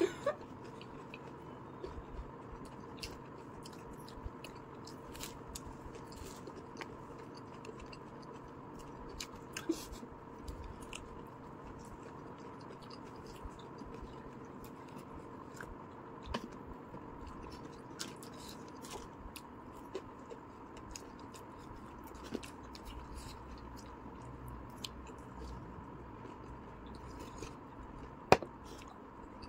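Two people chewing and biting pizza: soft, irregular mouth clicks and smacks over a faint steady hum, with one sharper click near the end.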